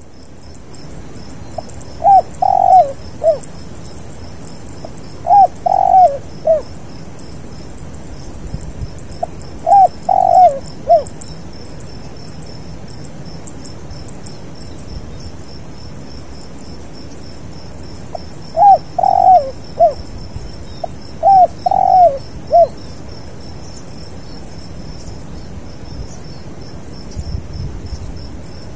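Spotted dove cooing: five short phrases of three or four notes each, several seconds apart. A steady pulsing insect trill runs high above them.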